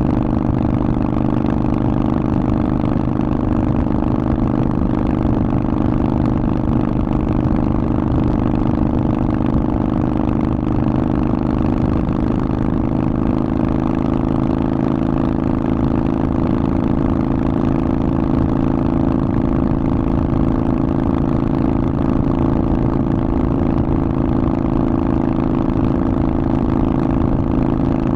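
Harley-Davidson Forty-Eight's air-cooled 1200 cc V-twin running through a Vance & Hines aftermarket exhaust, holding a steady engine speed throughout.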